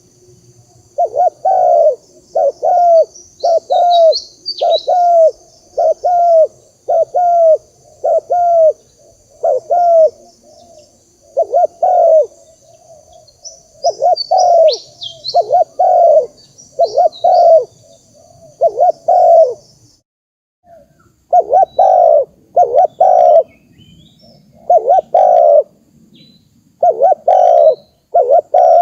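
Spotted dove cooing: loud, short coo notes repeated about every half second to a second in phrases, with brief pauses. Behind it a high steady buzz with small chirps cuts off about two-thirds of the way through.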